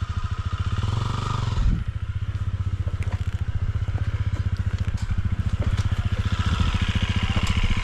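Dirt bike engine running at a steady low speed, an even rapid pulsing, with a brief swell about two seconds in.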